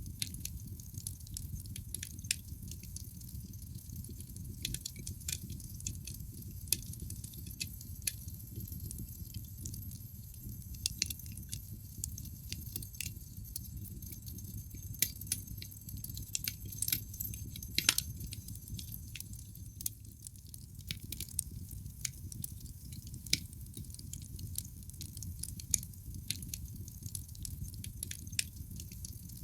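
Wood logs burning in a fireplace: frequent irregular crackles and sharp snaps over a steady low rumble of the flames, with one louder pop about two-thirds of the way through.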